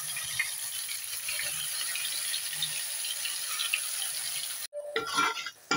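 Green chilli and mint paste frying in hot oil in an aluminium pot, a steady sizzling hiss with small pops. Near the end the sizzle breaks off sharply and a few metal clinks of a spoon against the pot follow.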